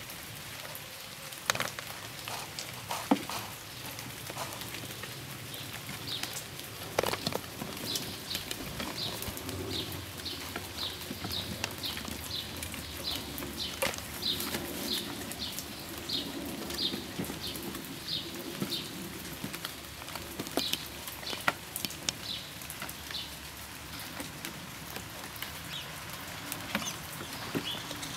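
Light rain pattering and dripping, with scattered sharp drip clicks. Through the middle a short, high chirp repeats about twice a second.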